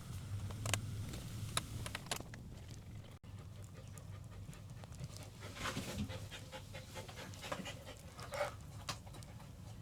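Dalmatian panting in short noisy bursts, with a few sharp clicks in the first two seconds.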